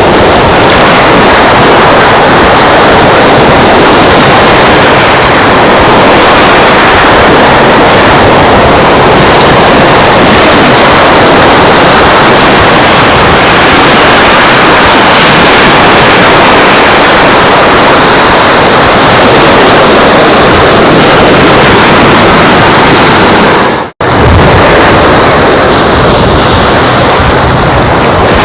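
Wind rushing over the microphone mixed with ocean surf on a beach, heard as a loud, steady wash of noise. The sound cuts out for an instant once, near the end.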